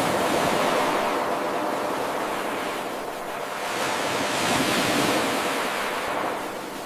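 Ocean waves washing onto the shore in a steady hiss that swells and eases, surging once near the start and again a little past the middle.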